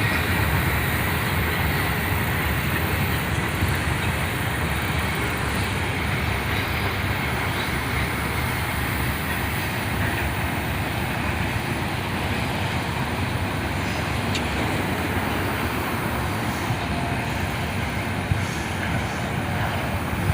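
A ballast train's cars rolling past on the rails, a steady rumbling noise that eases slightly toward the end.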